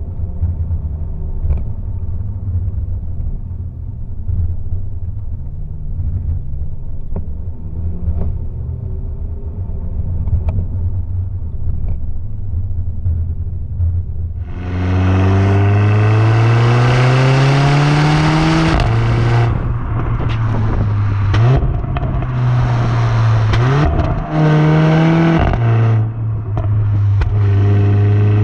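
Mercedes A45 AMG's turbocharged four-cylinder engine, with an AMG performance exhaust, running steadily at low revs, then pulling hard about halfway through with the revs climbing for several seconds. A break in the note follows, then further loud stretches of acceleration with short climbs and dips in revs.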